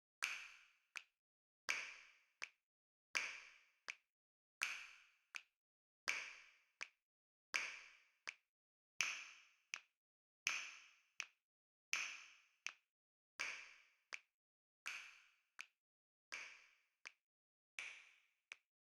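Faint, sharp snap-like clicks in a slow, even rhythm, one about every one and a half seconds, each dying away quickly and followed by a softer short tick: a bilateral-stimulation tapping sound effect.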